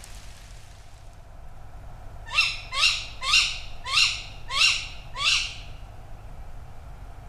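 Tawny owl giving six short calls in quick succession, starting about two seconds in, roughly two calls a second.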